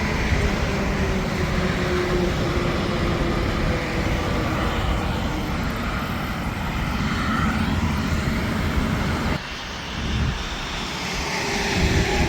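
Heavy interstate traffic with semi-trucks passing close by: a steady rush of tyre and engine noise, with a falling whine as one passes early on. The sound drops off suddenly about nine seconds in, then builds again as more traffic approaches.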